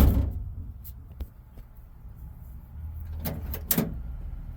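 A 1985 Buick Regal's door slamming shut at the start, followed by a few light clicks and two sharper knocks about three seconds later as the newly fitted door latch and handle are tested.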